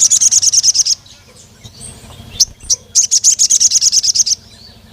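Crimson sunbird (sogon) singing in two rapid runs of high-pitched chirps, about a dozen notes a second: a short run at the start and a longer one from about three seconds in.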